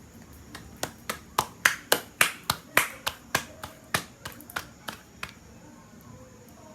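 Hands slapping and patting flour-tortilla dough for baleadas: about sixteen quick slaps, some three a second, loudest in the middle and fading toward the end.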